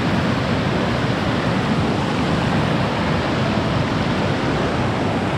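A fairly large waterfall pouring, heard close by as a loud, steady, even rush of falling water.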